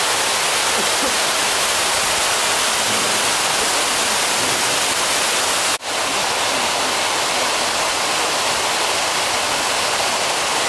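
Steady, loud rushing of water pouring down through a fan cooling tower. The sound breaks off for an instant about six seconds in, then carries on unchanged.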